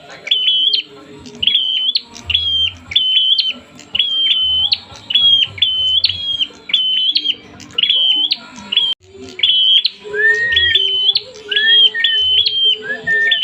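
Prenjak (prinia) calling agitatedly: a rapid run of sharp, high chirps, each a short flat note ending in an upward flick, roughly one and a half a second. About ten seconds in, a lower call joins three times.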